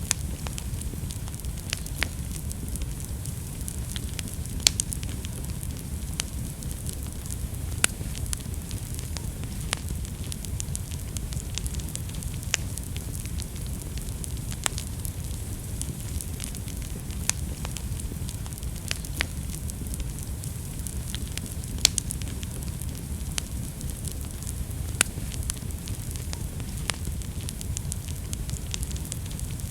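Wood fire burning steadily with a low rumble, crackling with frequent sharp pops, a few louder ones scattered through.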